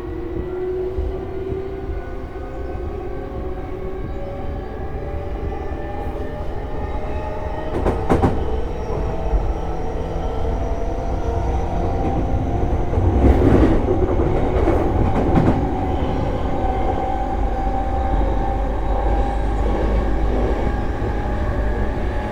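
E233-series electric train running, with the motor whine slowly rising in pitch as it gathers speed over a steady rumble of wheels on rail. A few short clatters come about 8 seconds in and again around 13 to 15 seconds.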